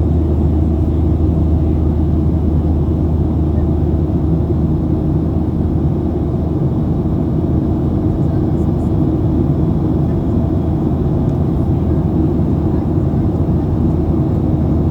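Steady cabin noise of a Boeing 737 in flight: an even drone of the jet engines and rushing air with a constant low hum, unchanging throughout.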